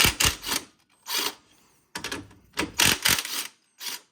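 Impact wrench rattling in about six short bursts, loosening the 19mm strut-to-steering-knuckle bolts, with brief pauses between bursts.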